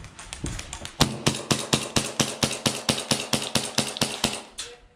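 Airsoft gun firing a rapid string of shots, about eight a second, starting about a second in and stopping just before the end.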